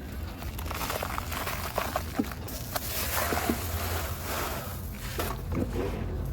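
Dry, crumbly material being crushed and crumbled, giving irregular crisp crackles over a steady low hum.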